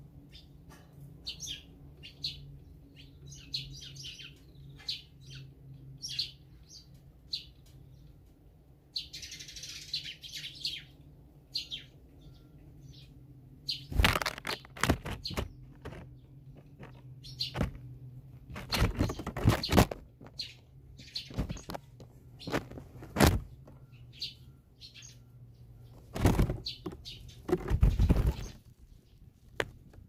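Small songbirds at a feeder chirping in short, high notes, with several loud thumps and flutters in the middle and near the end.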